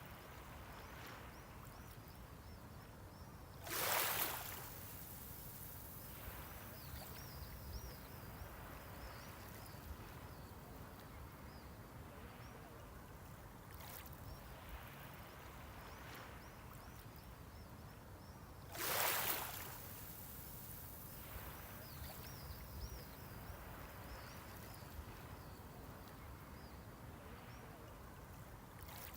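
Waves breaking on the shore twice, about fifteen seconds apart, each a brief rushing wash, over the steady low hiss of the sea.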